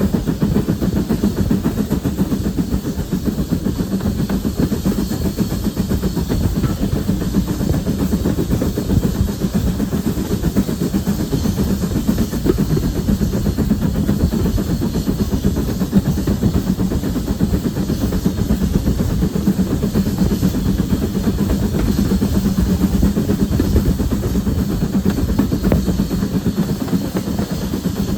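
A railway locomotive running: a continuous, steady low rumble with a hum and some hiss.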